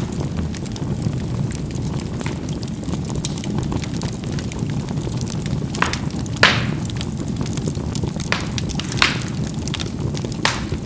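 Charcoal burning in a fireplace: a steady low rumble of flame with frequent small crackles and several louder sharp pops as the coals burst, the loudest a little past the middle.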